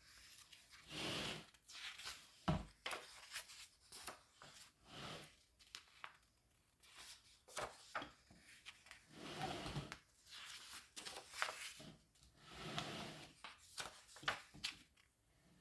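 Paper pages of a book being turned and handled: faint swishes of paper every second or two, with light clicks and one louder knock about two and a half seconds in.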